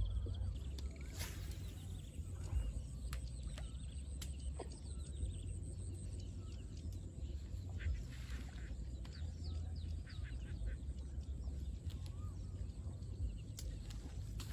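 Faint bird chirps come and go over a steady low rumble, with a few light clicks.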